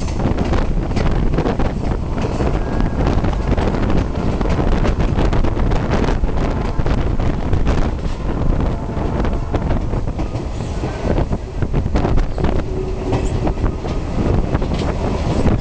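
Passenger train cars rolling along the track at speed, heard from outside an open door of a moving car: a steady rumble with frequent irregular clacks and knocks from the wheels and couplings.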